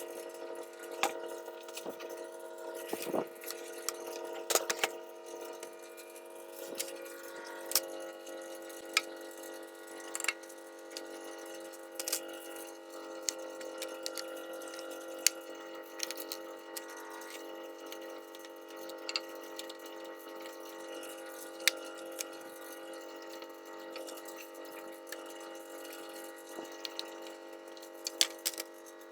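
Liquid dripping in irregular drops, over a steady hum of several held tones.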